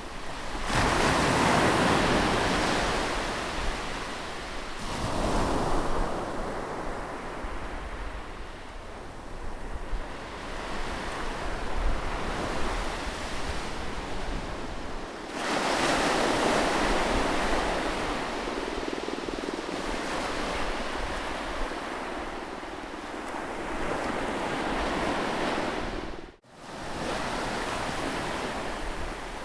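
Sea waves breaking on a beach and washing up, with two big surges about a second in and about halfway through and a smaller one in between. The sound cuts out for an instant near the end.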